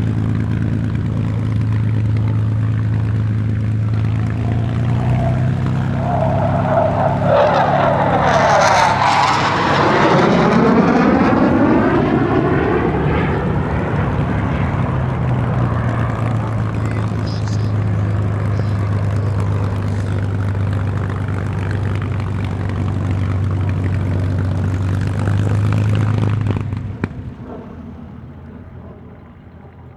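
Merlin V12 engine of a WWII fighter running at a steady drone, with a low pass about nine seconds in whose pitch sweeps down as it goes by. The engine sound cuts off sharply about 27 seconds in, leaving only faint background.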